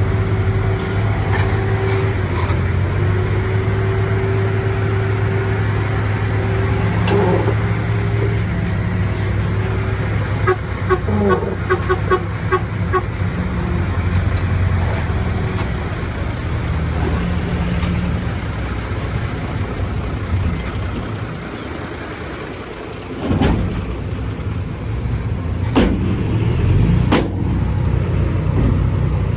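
Diesel engine of a heavy truck or tractor running steadily. A short run of quick regular ticking comes about halfway through, and a few sharp knocks come in the last third.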